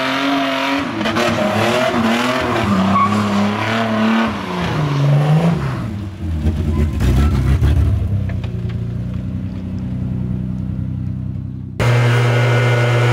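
Toyota Cressida engine revving up and down hard as the car is driven, then settling into a lower, steadier drone about halfway through. Near the end the sound cuts abruptly to a steady motor hum.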